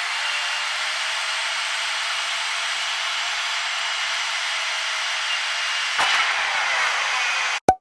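Steady jet airliner noise: an even rushing hiss with a faint steady whine. There is a click about six seconds in, and the sound cuts off abruptly just before the end.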